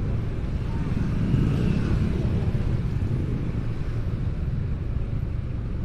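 Large motorcycle engine rumbling steadily, growing a little louder about a second and a half in.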